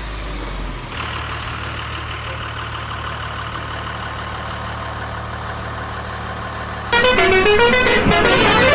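Toy vehicle sound effects: a steady electronic engine hum starts about a second in, then near the end a louder melodic horn tune plays in short stepping notes.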